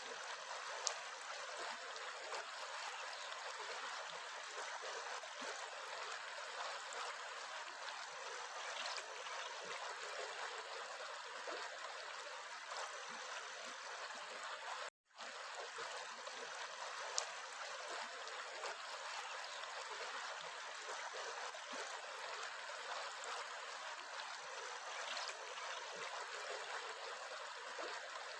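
A small stream trickling and burbling steadily over stones. It cuts out for an instant about halfway through.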